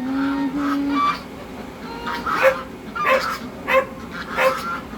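A dog barking in a string of short barks, after a drawn-out whine in the first second.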